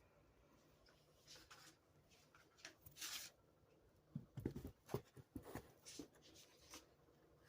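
Near silence in a small room, broken by a few faint rustles and then, about four seconds in, a run of soft taps and scratches.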